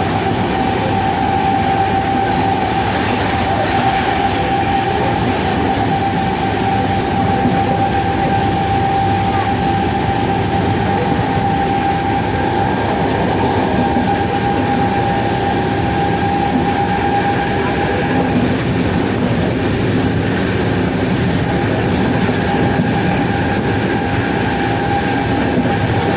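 WAP-7 electric locomotive running, its traction motors giving a steady whine over the rumble of the wheels on the track. The whine fades away about two-thirds of the way through while the running noise carries on.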